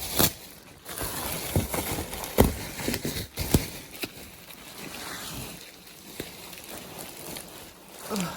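Parcel packaging being handled and pulled open: rustling of cardboard, tape and bubble wrap, with several sharp knocks and clicks in the first few seconds and quieter rustling after.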